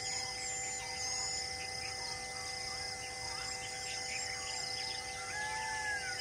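Birds chirping and calling, with a longer falling whistle about five seconds in, over a steady background drone of even tones.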